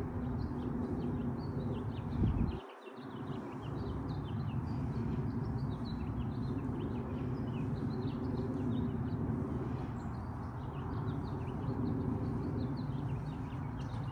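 Small birds chirping in many short, quick notes over a steady low rumble; the rumble drops out briefly about two and a half seconds in.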